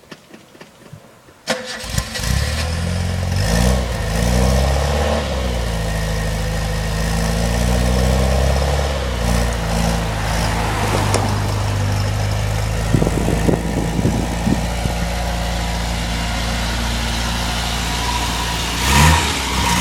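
A Sigma's petrol engine, with diesel still in its fuel system, is restarted after stalling: it catches about a second and a half in, its revs rise and fall a few times, then it runs on steadily.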